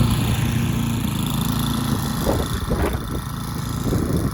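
Snowblower engine running steadily, with a couple of brief knocks about two and three seconds in.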